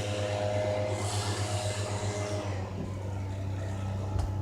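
Cessna light plane's piston engine and propeller droning overhead as it passes low, steady, with the higher rushing part of the sound dying away after about two and a half seconds.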